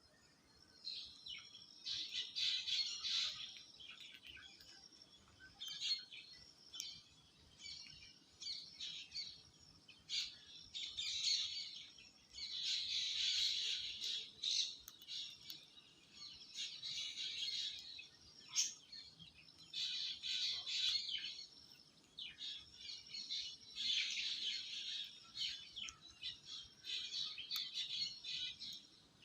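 Birds chirping and twittering in repeated high-pitched bouts of a second or two, with short pauses between.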